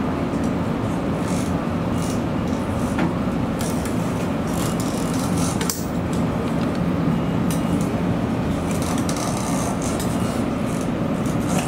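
Nishitetsu electric train running, heard from inside the front of the car behind the driver's cab: a steady low rumble of motors and wheels on the rails, with scattered short clicks.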